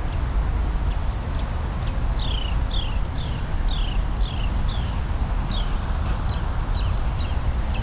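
A bird calling a long run of short notes, each sliding down in pitch, about two a second, over a steady low rumble of highway traffic.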